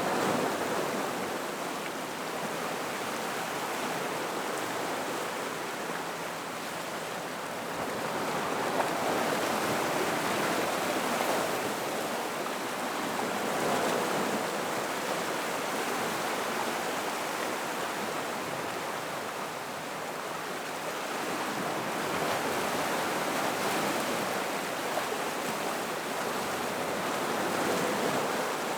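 Gentle ocean waves washing over rocks around a rock pool: a steady rush of water that swells and eases every several seconds.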